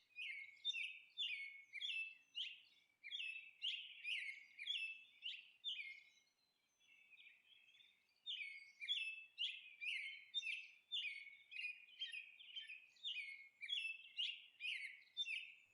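Birds chirping: a long run of short, falling chirps, about three a second, that stops for about two seconds midway and then resumes.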